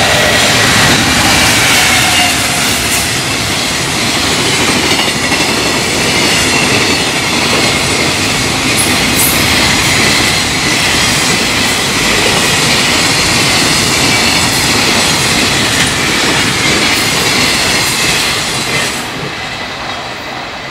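Long container freight train passing at speed at close range: a continuous loud rush and rumble of wheels on rail with the clickety-clack of wagons over the rail joints, dying away near the end as the last wagon goes by.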